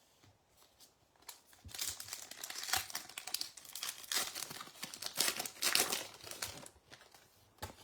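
A trading card pack wrapper being torn open and crinkled by hand, a run of crackling that starts about a second and a half in and stops shortly before the end.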